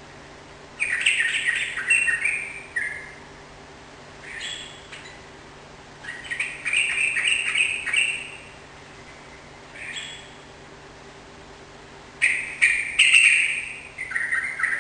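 Sooty-headed bulbul (trucukan) singing: five bursts of quick, bubbly chirping phrases separated by short pauses. A faint steady hum lies under the song.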